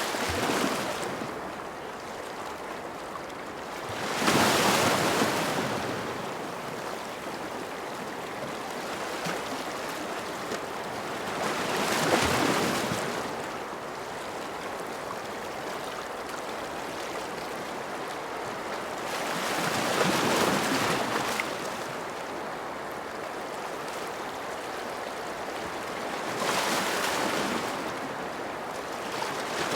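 Ocean waves breaking on a shore in a steady wash of surf, with a wave swelling up and falling away about every seven to eight seconds, five times in all.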